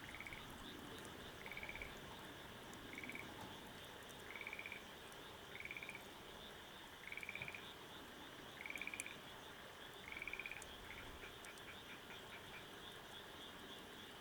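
An animal calling: eight short trilled calls about a second and a half apart, followed near the end by a quick run of short ticks, over a steady high hiss.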